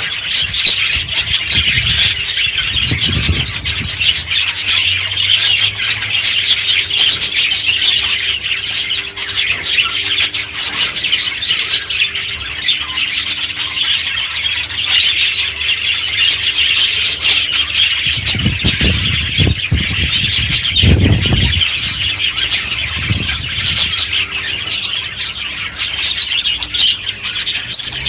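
A flock of budgerigars chattering and warbling continuously, with a few low thumps near the start and about two-thirds through.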